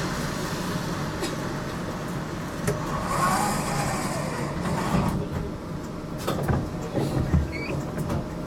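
GTL8 tram running, heard from inside the car: a steady rumble of wheels on rail, with a run of sharp clicks and knocks in the second half.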